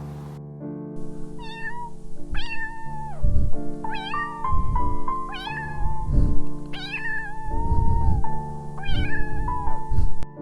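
Cat meowing repeatedly, about six separate meows, over background music.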